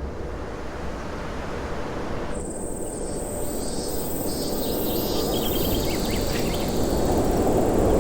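Outdoor nature ambience: a steady rushing noise that swells gradually louder, with high insect chirring cutting in about two seconds in.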